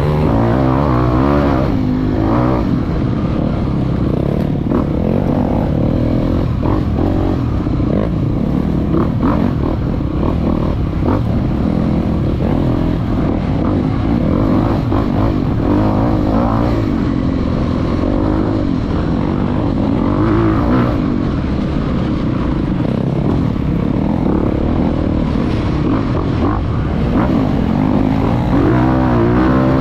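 Dirt bike engine running with the revs rising and falling a few times, heard close up from the bike.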